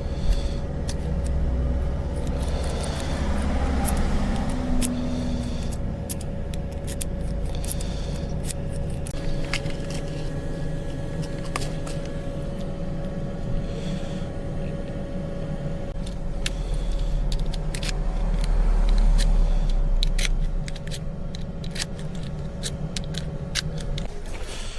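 A vehicle engine hums steadily while keys and small metal tools jangle and click in short sharp taps during work on the van's ignition lock.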